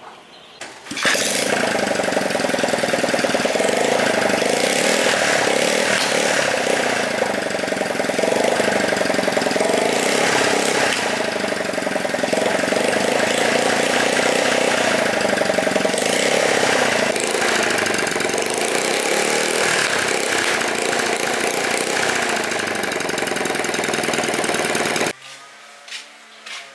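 150cc motorbike engine running steadily, starting about a second in and cutting off abruptly near the end.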